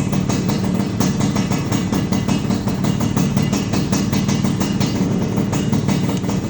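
Modenas Dinamik motorcycle engine idling steadily through an aftermarket 79DUX racing exhaust, with a fast, even pulsing and no revs.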